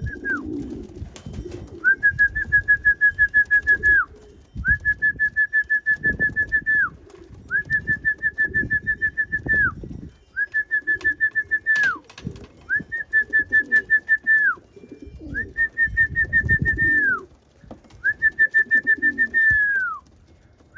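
A whistle blown in seven rapid trills of about two seconds each, each dropping in pitch at its end: a pigeon keeper's feeding call to bring young racing pigeons into the loft.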